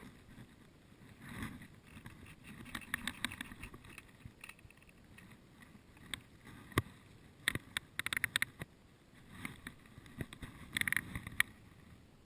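Rustling and crunching of movement through undergrowth, broken by sharp clicks, with a quick run of them a little past the middle.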